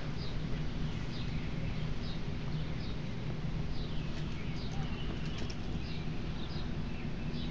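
Small birds chirping in the background, short falling chirps about two a second, over a steady low hum.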